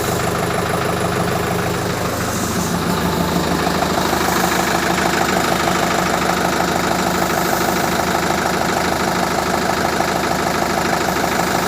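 ACE tractor's diesel engine idling steadily, its note shifting slightly about two and a half seconds in and then running on evenly.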